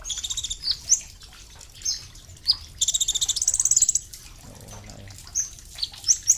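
A kolibri ninja sunbird calling in short, high, rapid chirping trills, with one longer fast trill of about a second near the middle and brief pauses between phrases.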